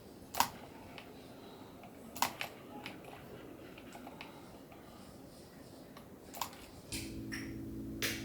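A handful of sharp clicks and light knocks from objects being handled, then a steady electric hum, like a small appliance motor, switches on about seven seconds in.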